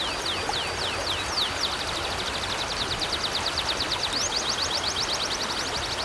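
River water flowing steadily, with a small songbird singing over it: a few high slurred notes, then a rapid trill of about ten notes a second from just under two seconds in until near the end.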